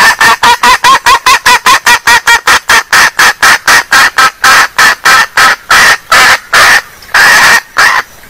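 A junglefowl hen calling in a rapid, loud run of short clucks, about five a second, that slows into a few longer notes near the end. This is the female call used as a lure to draw wild junglefowl.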